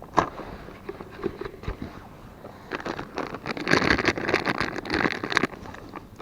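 Rustling and crackling of dry fishing groundbait being handled and poured from its plastic packet, busier in the second half.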